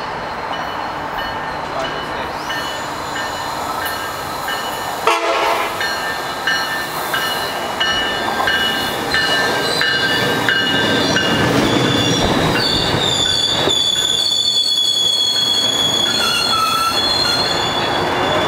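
Tri-Rail commuter train, a bilevel cab car leading, pulling into the station and slowing alongside the platform. Its wheels and brakes squeal in several high, steady tones that grow louder as it comes closer. There is one sharp knock about five seconds in.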